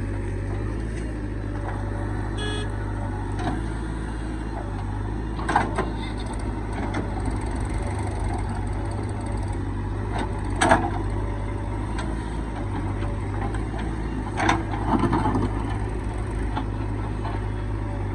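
Heavy diesel engine of earth-moving machinery running steadily with a low drone, with a few sharp knocks or clanks: one about five seconds in, one near eleven seconds, and a short cluster around fifteen seconds.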